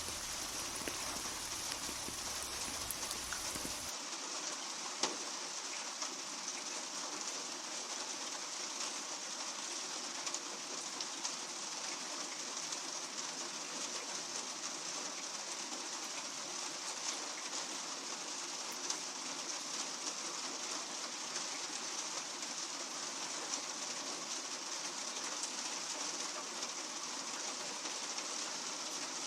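Steady rain falling: an even hiss with scattered sharper drop ticks. About four seconds in, the low rumble underneath drops away.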